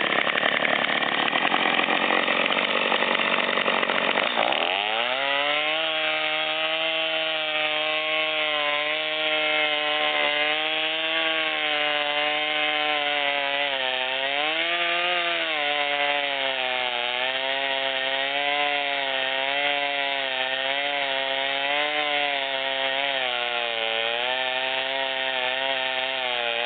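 Gas chainsaw running and cutting wood. About four and a half seconds in, the engine's pitch drops sharply and settles into a steady, slightly wavering note as the saw works on.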